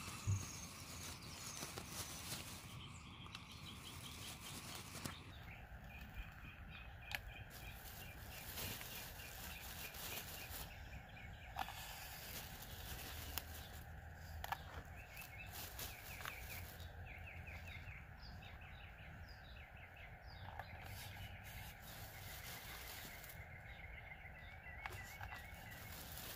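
Small birds chirping in quick runs of short repeated notes, several times over, above a steady low outdoor background with a few sharp clicks.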